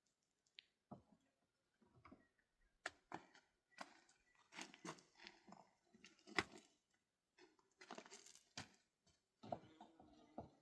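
Quiet, irregular knocks, clicks and scrapes, a few sharper and louder than the rest, as of hard objects being handled and set down.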